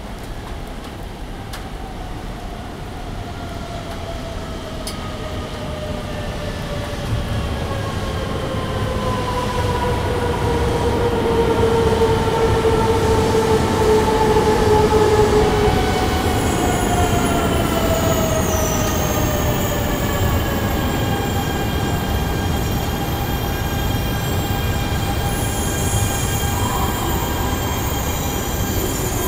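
JR East Shinkansen train running slowly past, growing louder as it comes near, with a motor whine that falls in pitch as the train slows. About halfway through, several steady high-pitched squealing tones set in over the rumble of the wheels.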